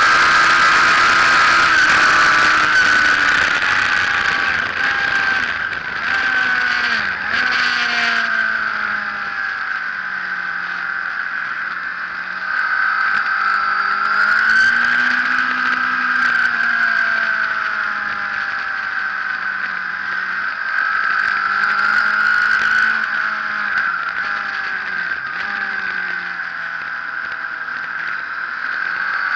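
Sport motorcycle engine at high revs, heard from an onboard camera behind the fairing with wind rush over the microphone. The engine note rises and falls with the throttle, with a run of quick drops in revs about seven seconds in, as on downshifts.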